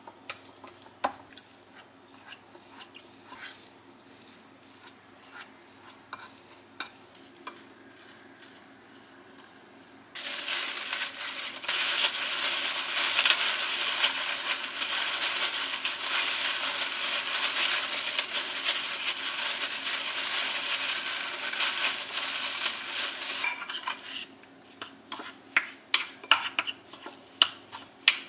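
Food sizzling in a hot frying pan, starting suddenly and cutting off abruptly after about thirteen seconds. Light clinks and taps of utensils and dishes come before and after it.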